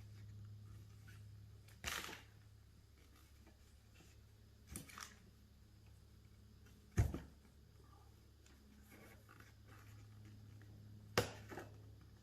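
Four separate sharp knocks and clinks of tools or parts being handled while working a part out of a hydraulic cylinder, the loudest about seven seconds in, over a low steady hum.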